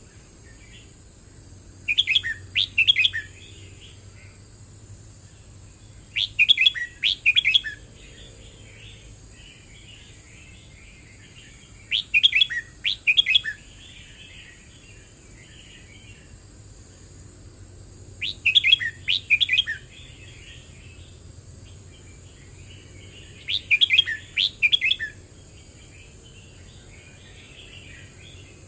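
Red-whiskered bulbul singing: five loud short phrases of several quick notes, one about every five to six seconds, with softer twittering between them.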